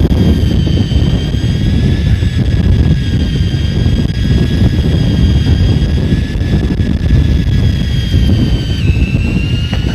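Boat engine drone and wind buffeting the microphone on a fishing boat at sea, with a steady high-pitched whine above it that drops in pitch near the end.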